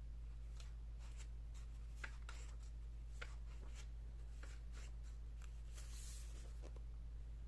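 Pages of a large hardcover picture book being handled and turned: scattered soft paper rustles and light ticks, with a longer rustle near the end, over a steady low hum.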